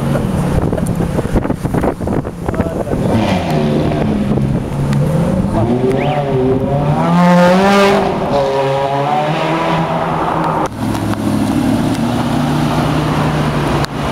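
Supercar engines revving and accelerating, their pitch rising and falling, loudest in a rising sweep about halfway through. Near the end the sound changes abruptly to a steady engine drone.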